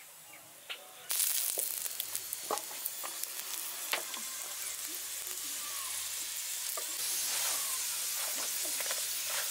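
Stuffed parathas sizzling in oil on a hot tawa griddle: a steady hiss with scattered small crackles. It starts suddenly about a second in and grows a little louder later.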